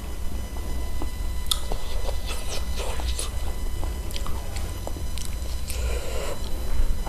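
Close-miked chewing and biting of spicy chicken feet, with sharp wet mouth clicks and smacks clustered in the middle and a steady low hum underneath.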